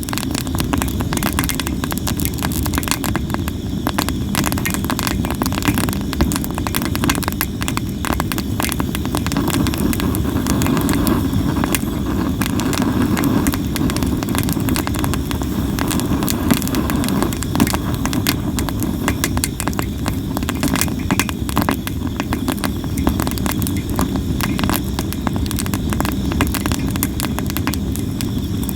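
Sawara cypress firewood burning, crackling and popping constantly over a steady low rumble.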